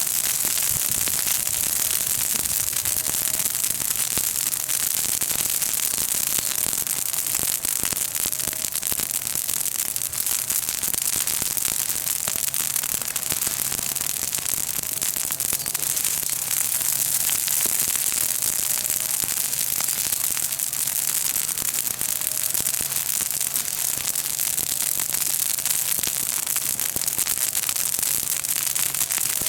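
Bonfire of green chestnut-tree leaves and twigs crackling: a dense, continuous spatter of many small pops. The leaves and small branches burn well; the crackling of the green wood is fierce.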